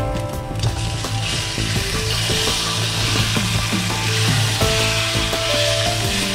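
Chicken pieces sizzling as they go into hot oil in a wok with curry leaves, garlic and chili, the frying hiss growing louder about a second in, while a spatula stirs them around the pan.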